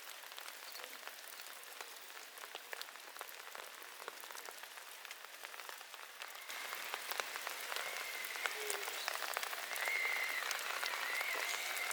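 Rain falling, an even hiss dotted with many small drop impacts, growing louder about halfway through. In the second half a faint, wavering high-pitched whine joins in.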